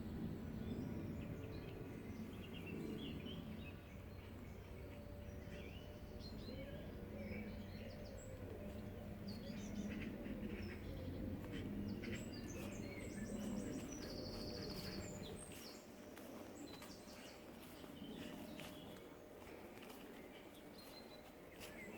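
Small birds chirping and singing over a steady low rumble. The rumble drops away about two-thirds of the way through.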